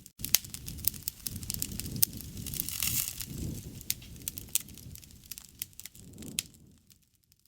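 Wood fire crackling: sharp pops and snaps over a low rumble of burning. It drops out for an instant at the start and fades away near the end.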